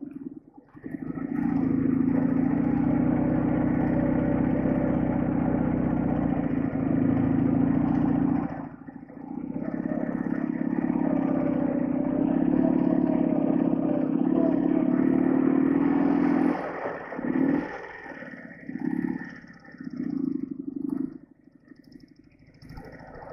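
Soviet flat-twin motorcycle engine running steadily under load, easing off briefly about nine seconds in, then surging on and off several times near the end before dropping quieter.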